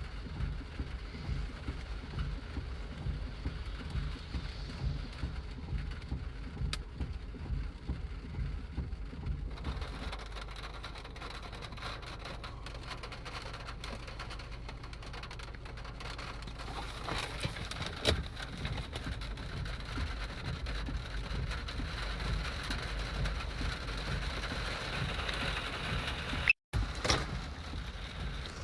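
Storm noise: steady rain and wind with a low rumble. The sound changes about ten seconds in, with a sharp crack about eighteen seconds in and a brief cutout near the end.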